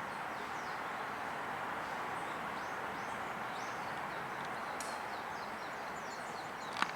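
Faint, short high chirps of small songbirds, scattered and coming more often in the second half, over a steady outdoor background rush, with one sharp click near the end.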